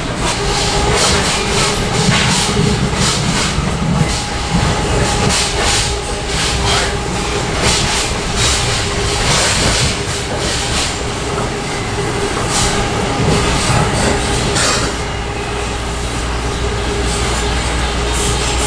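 Train running on rails, a continuous rumble with a steady hum and many irregular clicks from the wheels.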